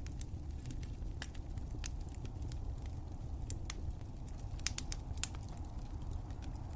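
Wood fire crackling: irregular sharp pops and snaps over a steady low rumble of the burning fire, with a few louder pops about five seconds in.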